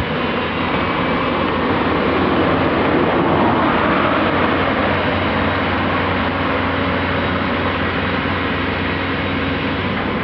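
Diesel engines of construction plant (dump trucks and an excavator) running steadily, with a constant low hum. The noise swells about three to four seconds in.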